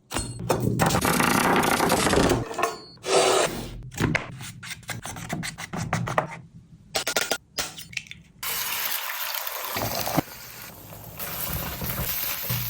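A string of short, abruptly cut kitchen handling sounds from making egg noodles: noisy rubbing and scraping, with no steady tone.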